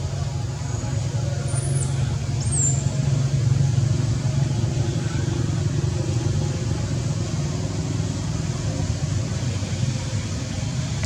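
Steady low rumbling background noise, with two short high chirps about two seconds in.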